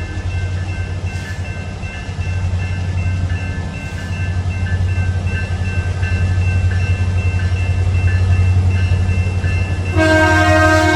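Freight train's diesel locomotives running with a steady low rumble. About ten seconds in, the locomotive's multi-chime air horn sounds loudly.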